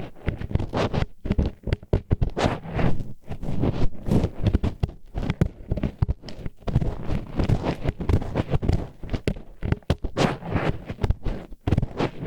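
Disposable wooden chopsticks scraping and rubbing inside the ear of an ASMR microphone as an ear pick, in quick, irregular strokes with a rough grinding scratch.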